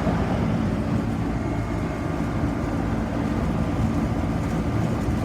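Carrier central air conditioner condensing unit running steadily: an even hum from the compressor with the whoosh of the condenser fan.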